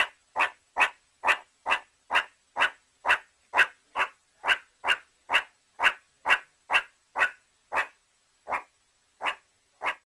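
Meerkat giving a long run of short, sharp calls, about two a second, spacing out slightly near the end.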